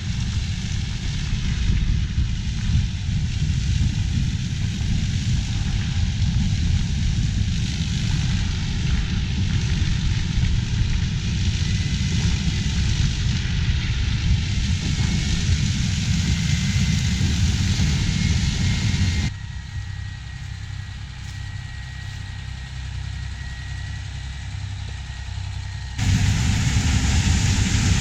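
Heavy diesel farm machinery running steadily in the field during corn harvest, a deep engine rumble with hiss above it. The sound drops sharply about 19 seconds in and comes back loud about 26 seconds in.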